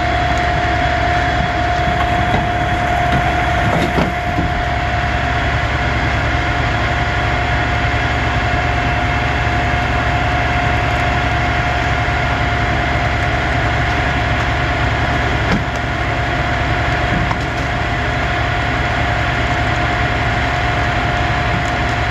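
Vehicle engine idling steadily: a constant low rumble with a steady high whine over it.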